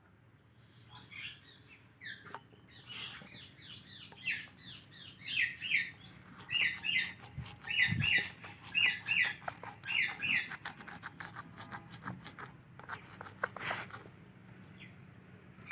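Pet parrot chirping in a long run of short, repeated calls, loudest from about three to ten seconds in, with scattered clicks and then a cluster of clicks near the end.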